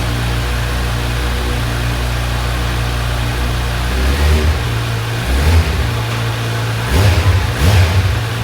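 2026 Kawasaki Z900's inline-four engine idling steadily through its stock exhaust, then blipped four times in the second half, each rev rising quickly and dropping back to idle.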